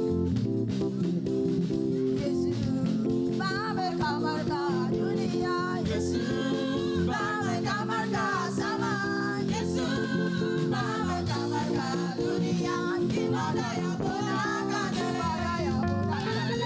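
Live church praise band playing an upbeat song with electric guitar, bass and drums, with singing over it.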